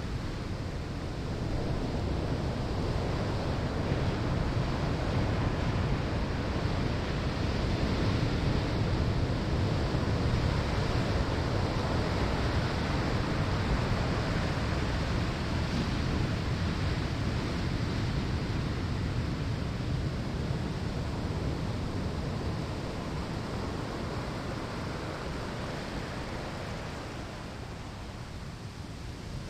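Waves breaking on a sandy shore: a continuous rush of surf that builds over the first few seconds and eases off toward the end.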